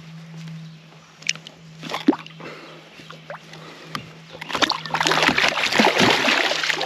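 Hooked bowfin thrashing at the surface beside the kayak, a few sharp splashes and knocks at first, then loud, continuous splashing over the last two seconds, strong enough to bend the hook. A steady low hum runs underneath.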